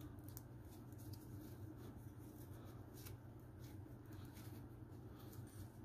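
Faint rustling and scratchy ticks of rope being handled and knotted onto a grappling hook, over a steady low hum.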